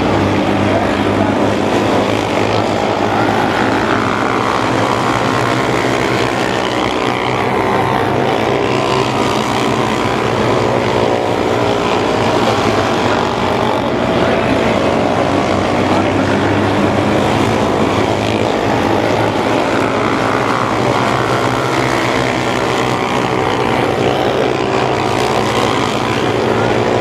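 Several mini sprint race cars' engines running hard together, their pitches rising and falling as they accelerate and slow through the turns.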